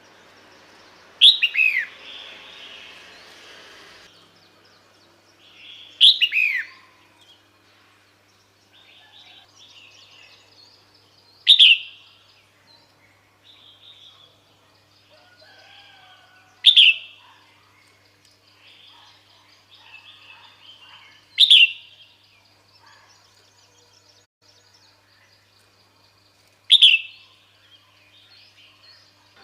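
Female red-whiskered bulbul calling six times at even spacing, about every five seconds: each call is a short, sharp note sliding downward. Fainter bird chirps fill the gaps between calls.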